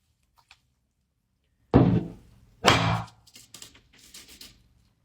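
Two heavy thunks about a second apart, each fading over about half a second, followed by a few light knocks.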